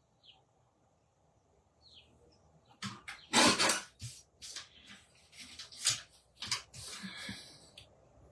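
Paper trimmer in use: a blade slides through cardstock with a half-second rasp about three and a half seconds in, followed by a run of short scrapes and taps as the card is shifted and trimmed again.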